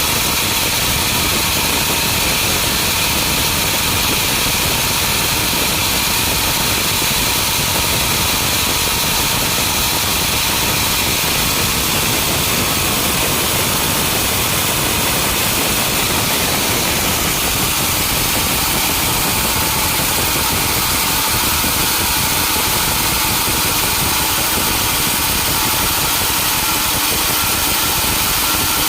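Sawmill engine running steadily, with no change in speed or load.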